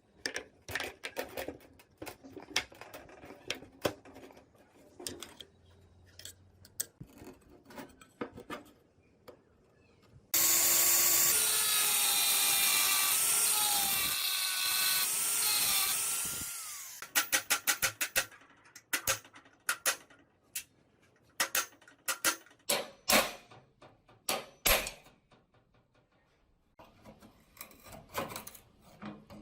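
A power tool runs for about six seconds, loud and with a wavering pitch, then winds down. It falls between stretches of scattered clicks, light scrapes and sharp knocks and taps of hand work.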